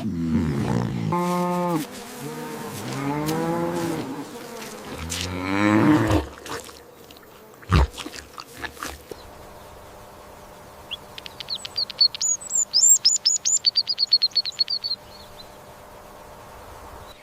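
Animal calls: several low, drawn-out voiced calls that bend in pitch over the first six seconds, then a rapid series of high chirps from about eleven seconds in.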